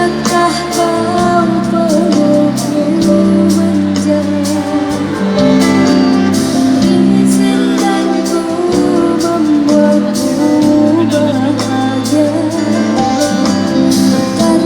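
Live band music with a woman singing over sustained chords and a steady drum beat.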